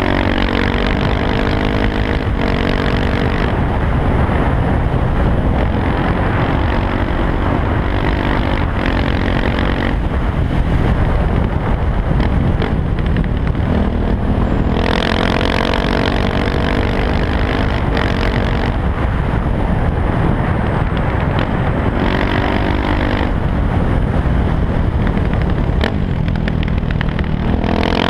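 KTM 690 SMC R single-cylinder engine breathing through an Arrow exhaust with the dB killer removed, pulling hard up through the gears about five times, each run rising in pitch in steps at the shifts, with steadier or rough stretches between.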